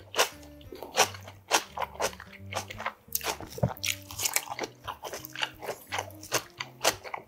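Close-up mouth sounds of chewing golbaengi muchim, sea snails tossed with raw vegetables: a quick, irregular run of crisp crunches, under background music.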